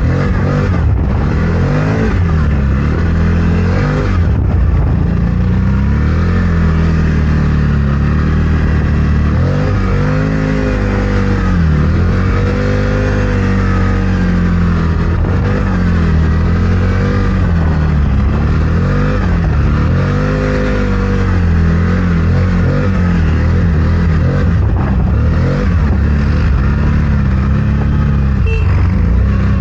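CFMOTO Gen 3 1000's V-twin engine running while driving through deep snow, its pitch rising and falling repeatedly as the throttle is worked, most of all through the middle of the stretch.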